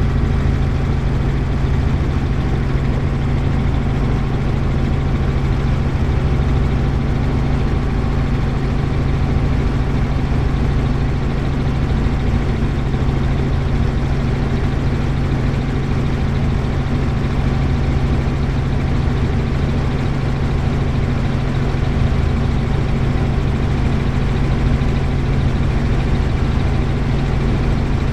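Helicopter engine and rotor running steadily: a loud, even drone with a strong low hum.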